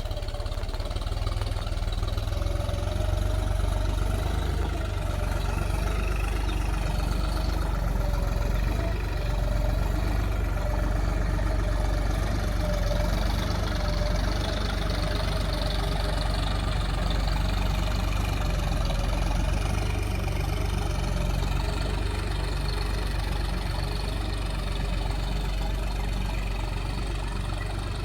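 Solis 4215 tractor's diesel engine running steadily at an even pace.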